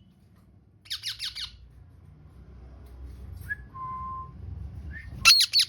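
Pet parrot squawking: a quick run of four harsh calls about a second in, a few short whistles, then a louder run of repeated screeches near the end. The owner takes the bird to be angry.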